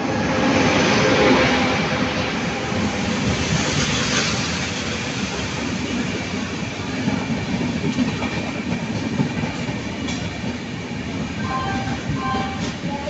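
Humsafar Express train, headed by its locomotive, running along the platform into the station. A loud rush of wheels on rail peaks about a second in as the locomotive passes, then the coaches keep rolling by with a few clacks over rail joints.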